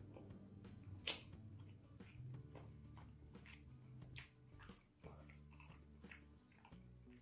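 Faint close-up chewing of tender beef rendang and rice, with scattered wet mouth clicks and smacks; one sharp click about a second in is the loudest sound.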